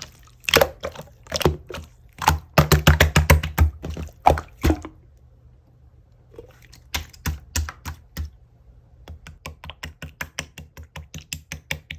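Tough, clear slime being pressed and squeezed by hand, making rapid sharp clicks and pops. A dense run of clicks is followed by a short pause, then a steadier run of clicks that quickens before stopping near the end.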